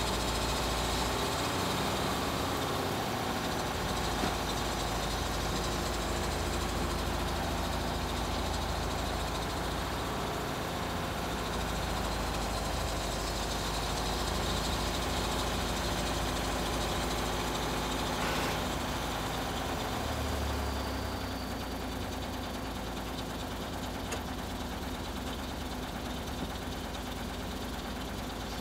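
An engine running steadily at low revs, easing slightly quieter about two-thirds of the way through.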